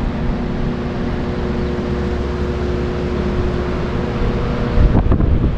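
A steady low mechanical hum with a few held tones. Near the end it gives way to wind buffeting the microphone.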